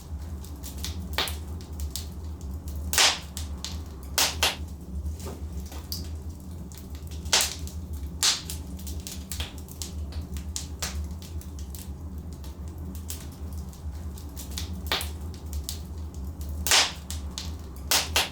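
Wood fire burning in a fireplace: a steady low rumble of flames with constant small crackling and several loud sharp pops from the burning logs.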